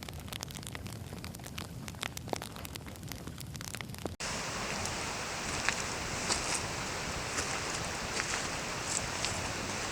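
Wood campfire crackling with sharp snaps and pops. About four seconds in, a cut brings a louder, steady hiss with fewer pops.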